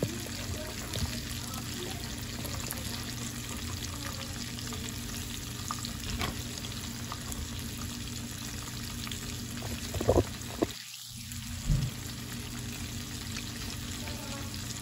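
Breaded flounder fillets frying in a pan of hot oil, with a steady crackling sizzle. A few sharp knocks come about ten seconds in.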